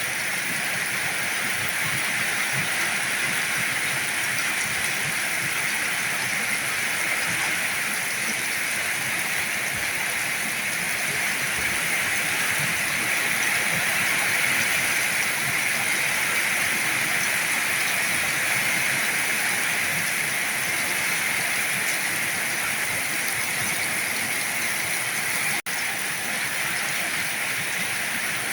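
Heavy rain falling steadily, a dense even hiss, with a momentary break in the sound near the end.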